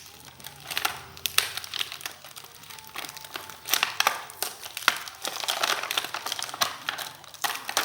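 Plastic packaging and sticky tape crinkling and crackling as they are worked off a toy train, with many sharp clicks and snaps throughout.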